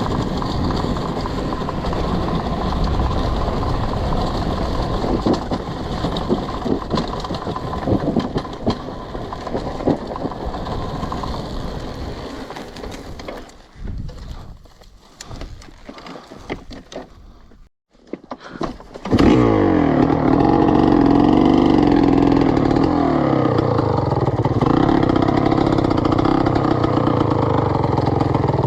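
Two-stroke enduro motorcycle engine (GasGas EC300). For the first half there is a dense rumble with scattered clicks, which grows quieter and patchier. After a brief gap about 19 seconds in, the engine runs loud and clear, its pitch rising and falling with the revs.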